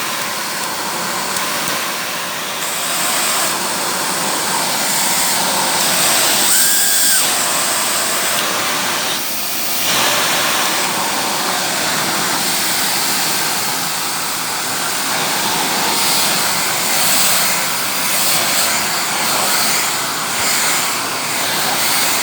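Shark vacuum cleaner running steadily through an attachment tool, with a continuous rushing whoosh of suction that shifts slightly a few times as the tool is worked.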